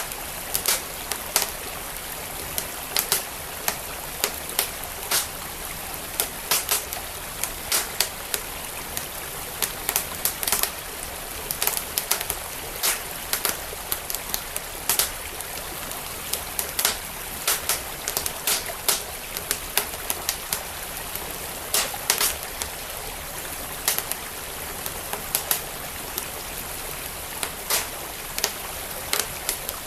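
Wood fire in a fireplace crackling with frequent sharp, irregular pops, over the steady rush of a flowing stream.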